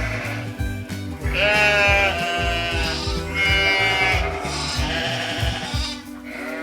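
Goat bleating, several wavering calls one after another, over background music with a steady beat.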